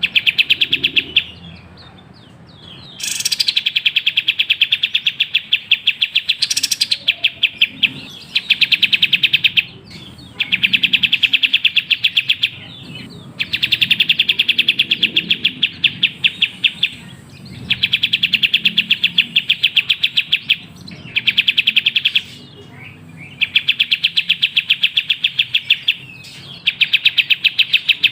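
Kapas tembak bulbul song as a trigger recording: fast runs of sharp, evenly spaced chirps in bursts of one to three seconds, separated by short pauses. Two higher sweeping notes cut in near the start.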